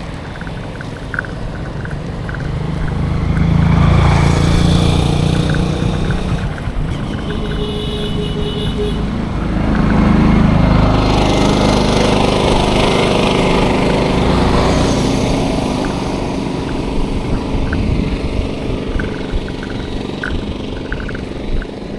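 Road traffic passing close on a village road: two vehicles swell past, loudest about four and ten seconds in, over steady road noise. A short pitched tone, like a horn, sounds between them.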